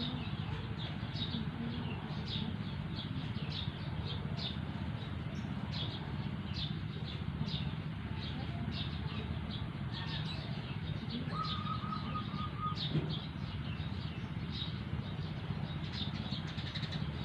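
Sirtu (cito) bird calling: short, high, downward-sliding chirps repeated about twice a second, with a brief lower trill about two-thirds of the way in. A steady low hum runs underneath.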